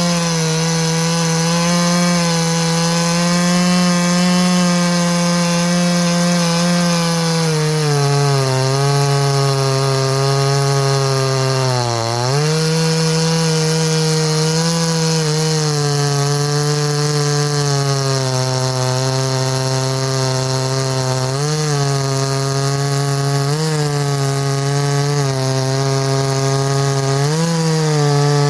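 58cc Chinese two-stroke chainsaw at full throttle cutting through wood. The engine note drops lower as the chain loads up in the cut about eight seconds in and dips sharply around twelve seconds, then rises briefly several times near the end.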